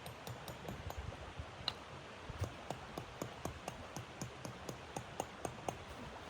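Wood fire crackling: irregular sharp pops and ticks, several a second, over a steady hiss.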